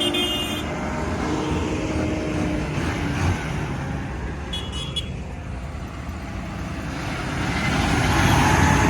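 Vehicle engine running with road noise. A short horn toot sounds at the start and another about five seconds in, and the engine noise grows louder near the end.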